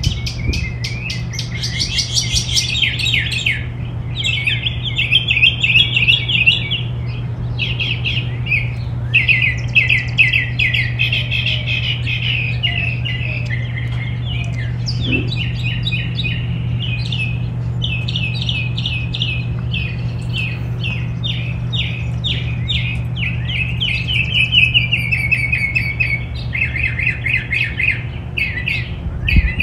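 Backyard songbirds chirping continuously in dense, rapid, overlapping bursts, over a steady low hum.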